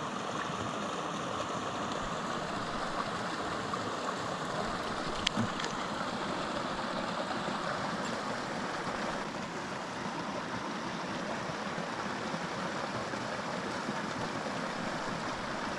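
Small mountain creek flowing steadily, an even rush of running water, with one brief click about five seconds in.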